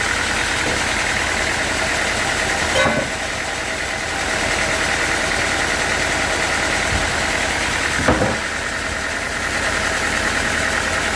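Sawmill machinery running steadily, an engine-driven saw, with two short knocks about three and eight seconds in, each followed by a brief drop in the sound.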